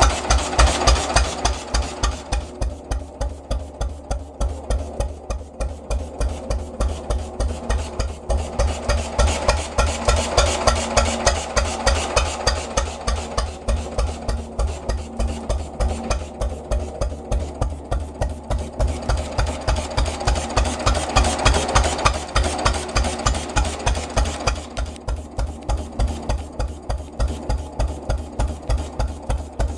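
1928 Conord BR4 4 hp antique stationary engine running, with a steady, rapid, even exhaust beat whose loudness slowly swells and eases.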